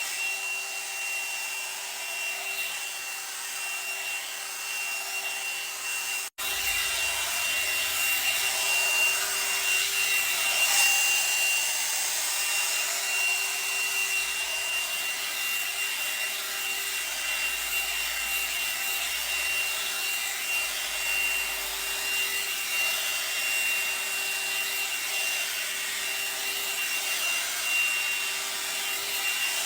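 One-step hot air brush (hair dryer and styler) running on its high setting: a steady blowing whir with a constant high whine, the brush rubbing as it is drawn through hair. The sound drops out for an instant about six seconds in.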